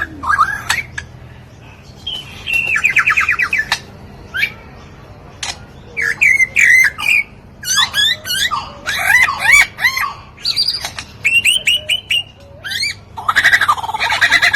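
Lyrebird singing a varied run of mimicked calls: rapid trills, quick warbling phrases and sharp squawks in bursts with short pauses between them, the densest burst near the end.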